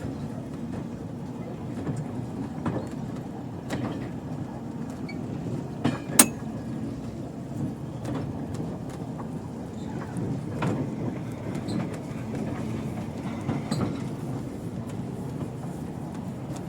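Railway train running along the track: a steady low rumble with irregular wheel clicks and knocks over the rails, and one sharp loud knock about six seconds in.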